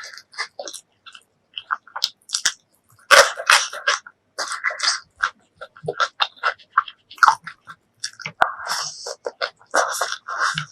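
Close-miked eating: wet chewing and mouth smacking in quick, irregular clicks and short squelchy bursts.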